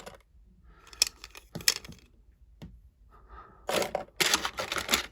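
Plastic Lego pieces being handled, with short clicks and clacks and some rustling. There are a few separate clicks in the first half and a busier stretch of clattering and rustling near the end.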